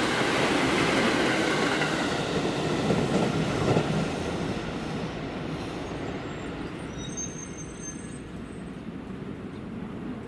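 Electric train running past on the tracks, loud at first and fading steadily as it moves away, with a faint thin squeal from the wheels partway through.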